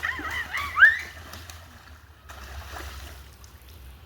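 A child's high-pitched squeals, several quick rising-and-falling cries in the first second, the last the loudest, followed by a faint wash of water and wind noise with a low rumble.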